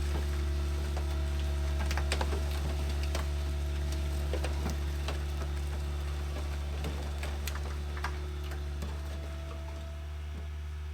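Steady low mechanical hum with a faint steady whine above it, typical of a vehicle engine running, overlaid with scattered light clicks and ticks.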